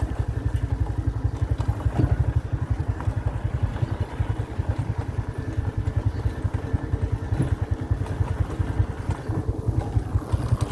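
A vehicle engine running at a steady speed, with a fast, even low pulsing throughout.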